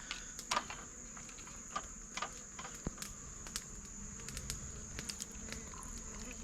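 Insects droning in one steady high-pitched tone, with scattered light clicks and taps.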